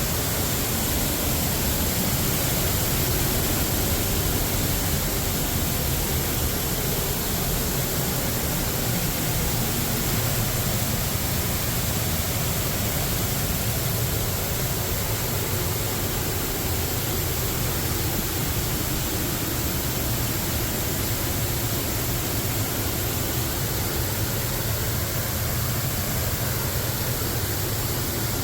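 Waterfall in high flow, a full veil of water pouring over the ledge after winter thaw and heavy rain: a steady rush of falling water.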